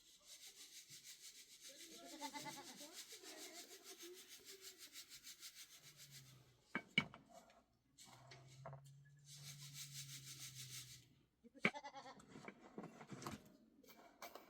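Rapid rhythmic rubbing strokes, several a second, in two spells with a short pause between. Sharp knocks come in the pause and again just after the second spell.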